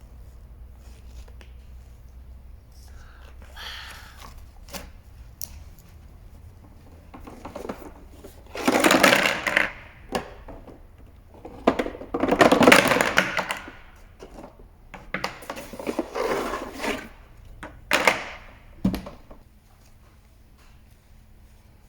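Handling noises of small objects: rustling and rubbing in several bursts of a second or two, with scattered sharp clicks and knocks.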